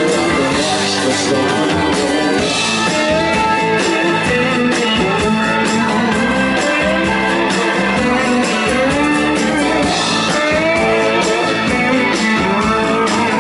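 Live blues-rock band playing a song, guitar among the instruments.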